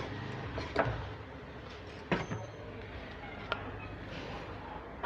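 A few sharp clicks and knocks of small objects being handled on a workbench, roughly a second apart, over a faint low hum.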